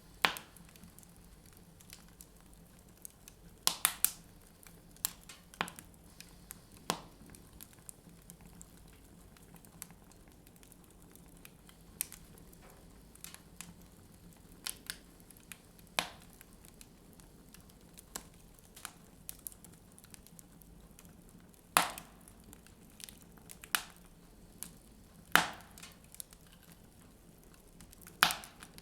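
Wood fire burning in a fireplace, crackling with sharp pops at irregular intervals, a few of them much louder than the rest.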